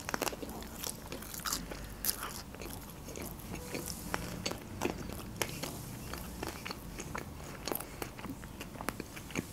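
Close-miked chewing of a mouthful of lahmacun rolled with green onion: irregular small clicks and wet mouth sounds, busiest just after the bite at the start.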